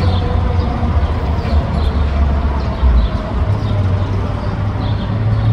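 Steady low rumble of a commuter train crossing a railway bridge, mixed with street traffic.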